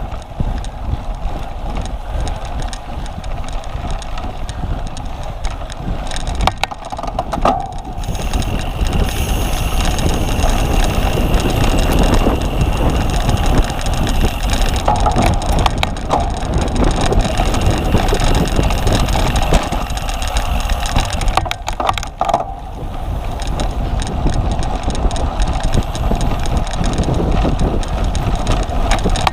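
Cyclocross bike ridden over a rough course: a steady rumble of wind on the microphone and tyres on the ground, with brief rattles and knocks twice.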